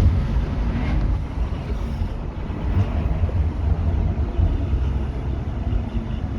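Stage 2 tuned BMW M140i's turbocharged 3.0-litre B58 straight-six with a Quicksilver exhaust, running hard at speed, heard from inside the cabin as a steady low rumble.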